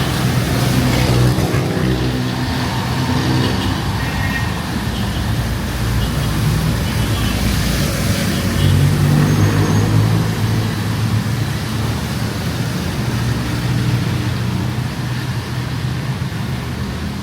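Street traffic: vehicle engines running close by, swelling as vehicles pass a few times, over a steady wash of road noise.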